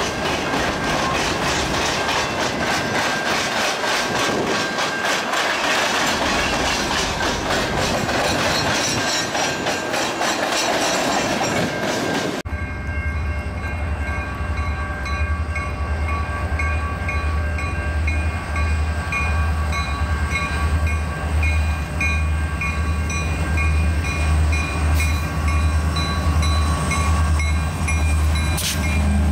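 Freight train of boxcars rolling past with a steady clickety-clack of wheels over the rail joints. About twelve seconds in, the sound cuts suddenly to a Canadian National diesel locomotive approaching slowly: a deep pulsing engine rumble, with a grade-crossing bell dinging in an even repeat.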